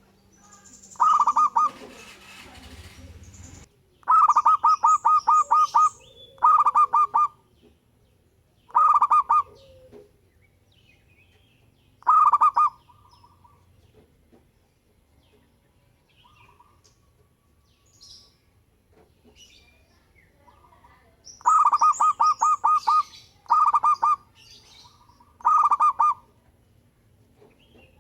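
Local zebra dove (perkutut) cooing: phrases of rapid, evenly pulsed coos, some short and some running to about a dozen beats, with a long pause in the middle. A brief stretch of hiss sits under the first phrase or two.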